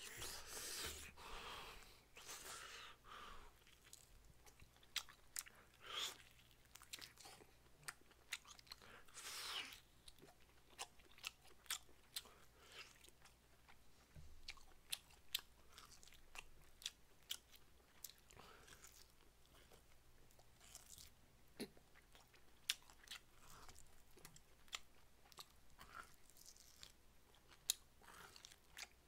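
Close-miked chewing and mouth sounds as a man gnaws braised beef short rib meat off the bone. The chewing comes with many small, sharp clicks and smacks, and there are a few longer, breathier mouth sounds in the first ten seconds.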